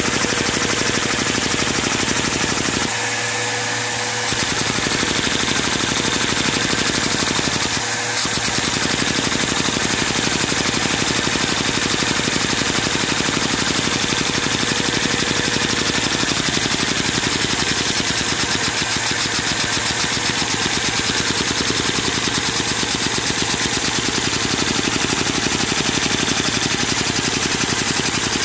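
Single-piston overhead-cam Lego vacuum engine running fast on vacuum suction: a rapid, steady clatter of Lego parts over a constant rush of air.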